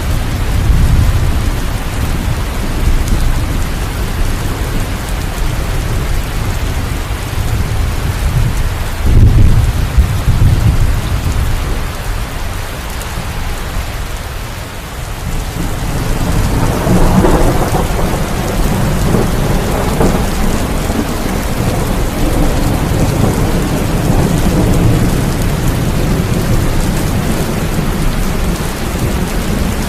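Steady rain falling, with low rolling rumbles of thunder that swell about nine seconds in and again from about sixteen seconds.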